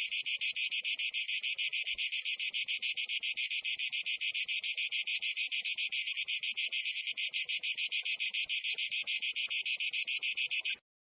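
Cicadas buzzing: a loud, high-pitched, rapidly pulsing drone that holds steady, then cuts off suddenly near the end.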